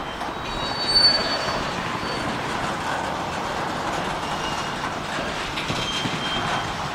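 Cars of a long Union Pacific freight train rolling slowly on the rails: a steady rumble of wheels and cars, with thin high squeals about a second in and again near the end.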